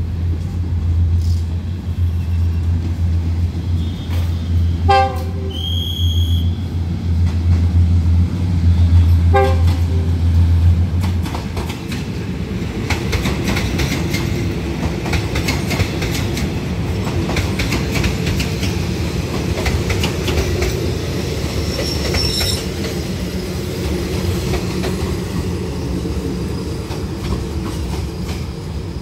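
Diesel passenger train running past a station platform. A steady low engine drone fades about eleven seconds in, with two short horn toots about five and nine seconds in. Wheels then clatter over the rail joints, with a brief high squeal about two-thirds of the way through.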